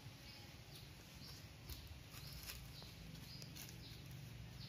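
Faint, short high chirps from small birds, repeating irregularly at about two a second over quiet outdoor background.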